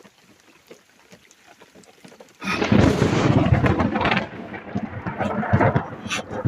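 Close thunder: a sudden loud crash about two and a half seconds in, rolling on in uneven surges of rumbling for the rest.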